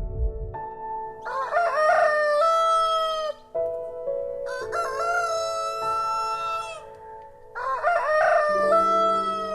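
Rooster crowing three times, each crow a long call of about two seconds, over soft background music.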